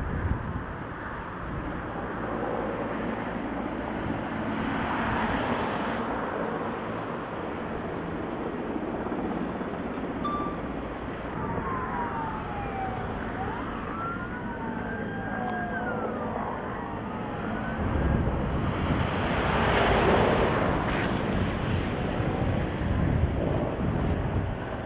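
A firefighting helicopter runs steadily under a constant rush of noise. A siren wails faintly up and down in the middle, and the engine noise swells louder near the end.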